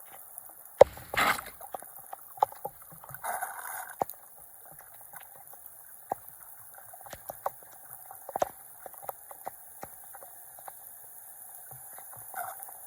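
Floodwater gurgling and splashing, with many small scattered splashes and a couple of louder splashes, about a second in and at around three to four seconds.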